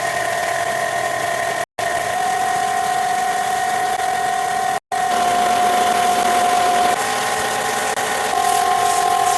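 A power tool motor running steadily with a high whine under a rush of noise. It is cut off twice for a split second, and its pitch shifts slightly twice near the end.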